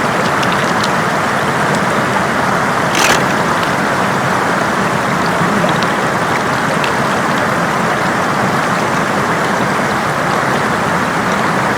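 Steady rush of floodwater flowing over a road, with faint scattered clicks and one short sharp noise about three seconds in.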